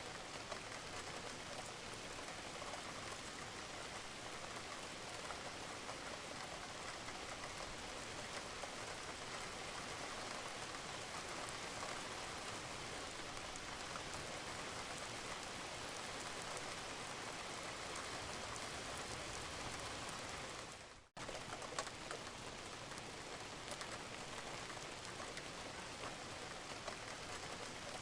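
Steady rain falling on a roof, with scattered drips, a continuous even hiss. The sound fades out briefly about three-quarters of the way through, then comes straight back.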